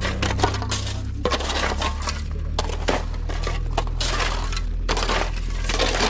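Murram gravel crunching and grinding in an irregular run of rough, crackling bursts. Underneath is the steady low hum of a heavy engine running.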